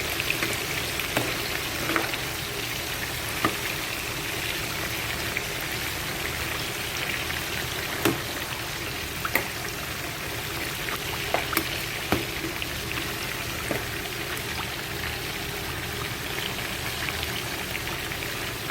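Chicken pieces frying in hot vegetable oil with a halved onion: a steady sizzle broken by scattered sharp pops and spits of oil.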